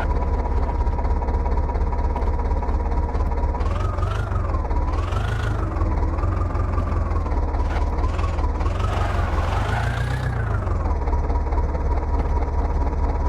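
Heavy diesel engine running steadily, with a thin whine that rises and falls in pitch several times through the middle and a few short hissy surges.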